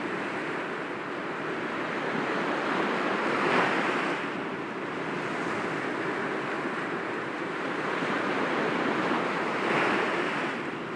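Sea waves breaking gently against rocks, a steady wash of surf that swells twice, about three and a half seconds in and again near the end.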